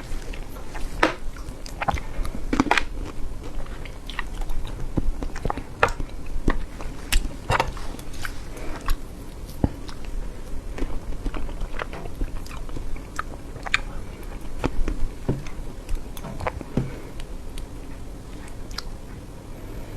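Close-miked chewing of soft cream cake: irregular mouth clicks and smacks.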